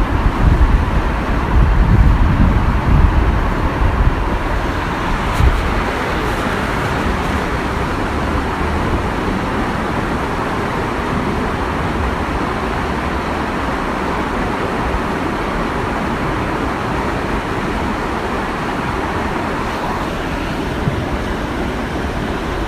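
Waterfall rushing in a steady, even roar of falling water. Low rumbling gusts run underneath during the first few seconds.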